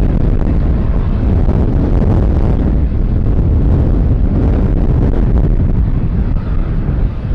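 Jet airliner's engine roar, a loud, steady, deep rumble, with wind buffeting the microphone.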